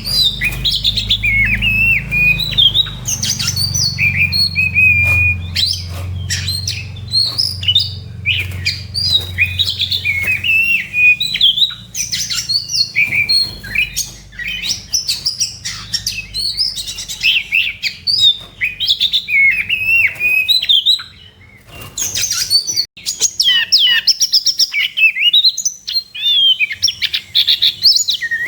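Oriental magpie-robin singing a fast, varied song of whistled notes, slurs and chattering trills, a loud, combative 'fighting' song. It breaks off briefly a little past the two-thirds mark, then resumes.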